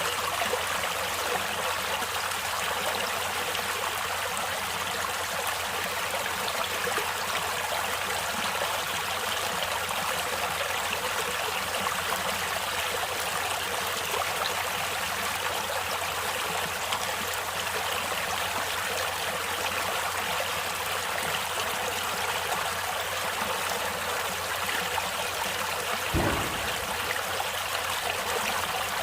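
Stream water flowing steadily, an even hiss of moving water with no change. There is a brief low thump near the end.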